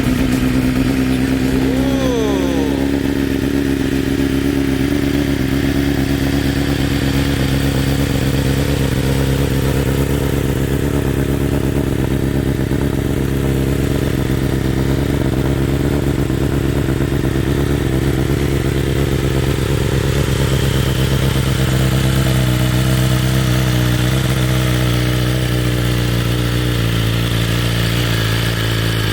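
A 2023 BMW S1000RR's inline-four engine idling steadily just after a cold start, through Akrapovic race headers and mid pipe mated to the factory premium slip-on. The note changes slightly about three quarters of the way through.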